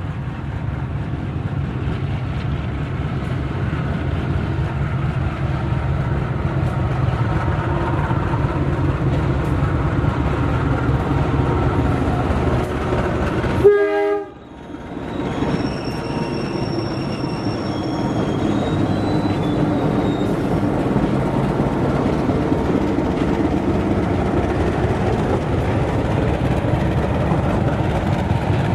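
Diesel locomotive hauling a passenger train, with a steady loud engine and running rumble. About halfway through, the sound spikes and then drops out abruptly for a moment. It then resumes, with thin high-pitched tones for a couple of seconds.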